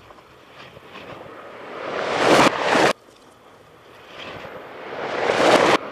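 Aerial firework bursts played backwards: each one builds from a faint hiss into a loud rush and then cuts off suddenly. There are two, ending about three seconds in and near the end.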